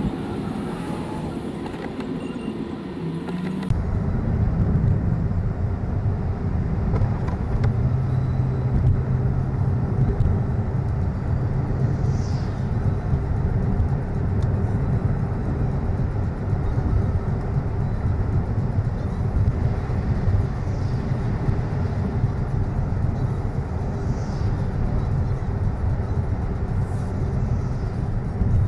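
Car interior road noise while driving on wet, snowy roads: a steady engine hum and tyre rumble. It gets louder and fuller about four seconds in, and a few faint short high squeaks sound later on.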